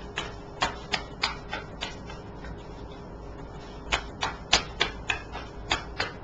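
A series of sharp taps, about fourteen in two quick runs of roughly three a second with a pause of about two seconds between them.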